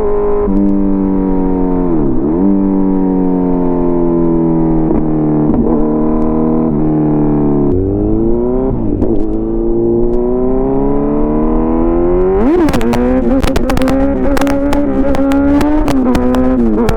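Kawasaki Z900's inline-four engine through an SC-Project CRT exhaust, running with its pitch holding and shifting up and down, with brief dips and a sharp step down about halfway through. About two-thirds in a rising rev is followed by a rapid run of sharp cracks lasting several seconds.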